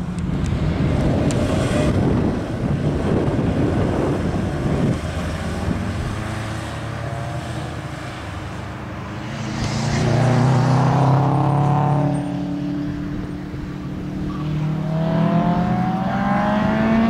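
Honda Civic hatchback's engine revving up and down as it is driven hard through a cone slalom, pitch climbing in repeated pulls and easing off between them. A rushing noise fills the first five seconds; the engine is loudest about ten seconds in and climbs again near the end.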